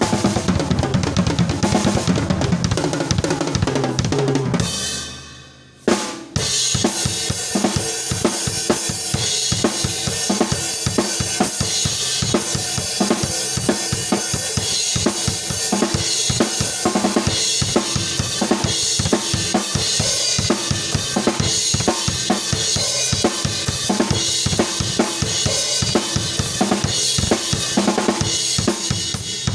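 Drum kit playing on its own, with bass drum, snare and cymbals in a steady groove. About five seconds in, the sound fades nearly out; a single hit follows and the beat starts up again.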